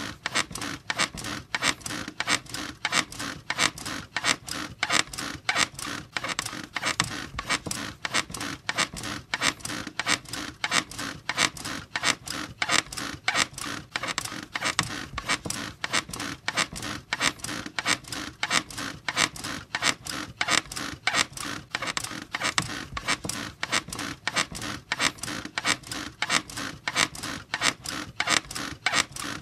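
Bed squeaking over and over in a fast, even rhythm, each squeak short and creaky.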